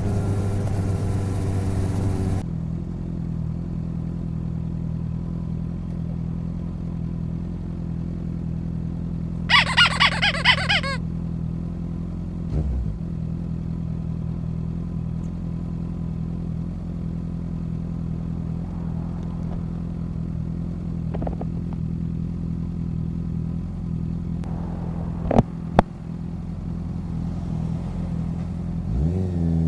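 Motorcycle engine dropping from riding speed to a steady, even idle about two seconds in, then revving up again near the end as it pulls away. A brief high, warbling sound comes in the middle, and two sharp clicks follow later.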